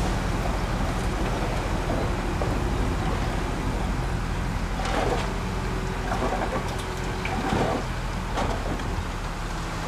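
Diesel engine of heavy earthmoving machinery running steadily, with a few brief louder sounds about halfway through.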